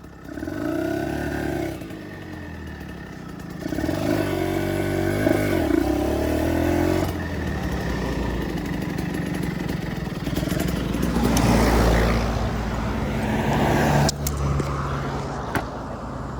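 Kawasaki Ninja 150 RR's single-cylinder two-stroke engine being revved: the pitch rises and falls twice in quick blips, then the engine runs louder and harder before dropping off suddenly about fourteen seconds in.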